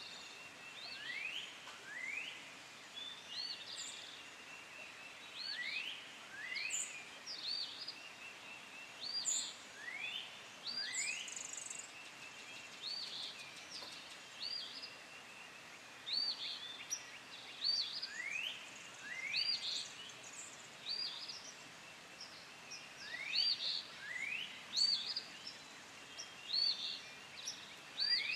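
Birds calling over and over: short rising whistled notes, alternating with quick high arched chirps, repeating every second or two over faint steady outdoor background noise.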